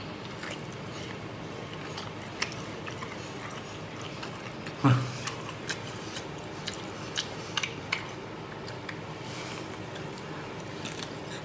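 Close-up mouth sounds of a person biting and chewing soft braised beef hoof tendon: wet smacking with scattered small clicks, and a short hum of enjoyment about five seconds in.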